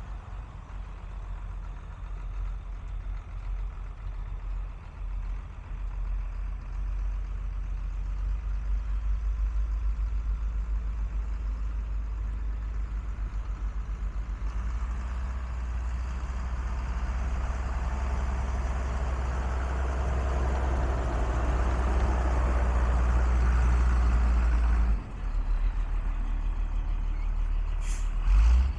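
Truck engine of a 1992 Ford L8000 running steadily, growing louder from about halfway through before dropping suddenly near the end. A couple of short clicks or knocks come just before the end.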